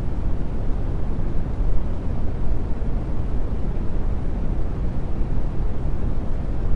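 Steady brown noise: an even, deep rumbling hiss that is strongest in the bass and thins out toward the treble, unchanging throughout.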